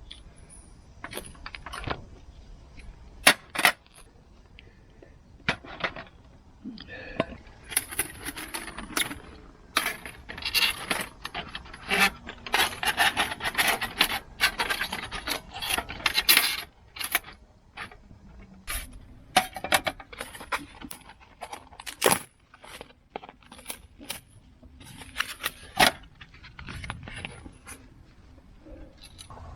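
Small metal objects clinking and rattling as they are handled: scattered sharp clinks, with a denser clatter through the middle.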